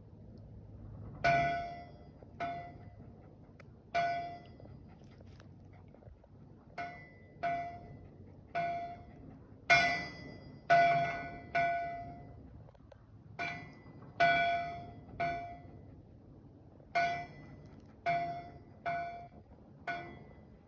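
A bell buoy's bell ringing, struck by its wave-swung clappers as the buoy rocks. There are about sixteen clangs at uneven intervals, some close together. Each rings out with a clear tone and fades over about a second.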